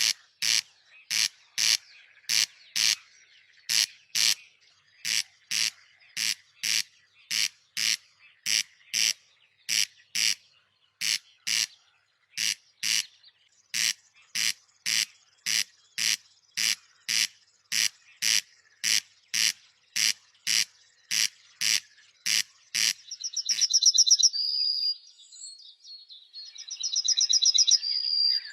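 A short, rasping bird call repeated steadily about twice a second. Near the end it gives way to two loud spells of rapid, high trilled bird song.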